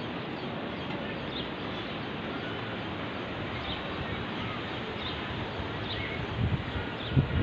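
Outdoor nature ambience: a steady background hiss with a few short, faint bird chirps scattered through it. Two low thumps come near the end.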